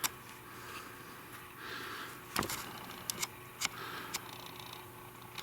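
A handful of light, sharp clicks and knocks, one at the start, one about halfway and a quick cluster of three or four near the end, over faint rustling: hand-handling of a metal tool or the camera.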